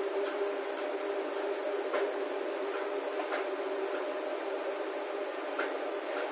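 Concrete pump truck running steadily: a constant machine drone with two held tones under an even hiss, with a few faint clicks.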